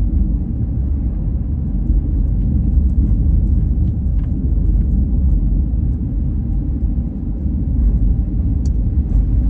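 Car driving, heard from inside the cabin: a steady low rumble of road and wind noise in strong wind.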